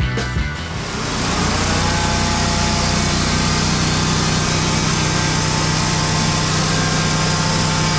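An engine running steadily at constant speed, with a strong hum and a hiss over it. Music fades out about a second in.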